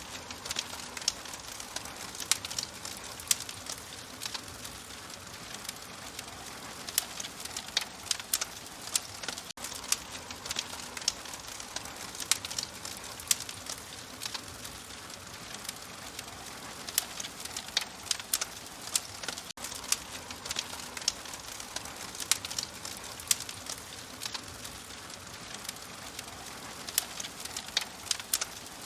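Wood fire crackling in an open fireplace: irregular sharp pops and snaps, several a second, over a steady soft hiss.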